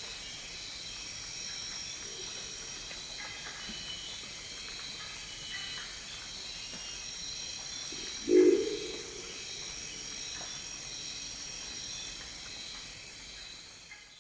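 Crested owl giving a single deep, gruff croaking call about eight seconds in, over a steady high-pitched rainforest insect chorus. The sound fades out near the end.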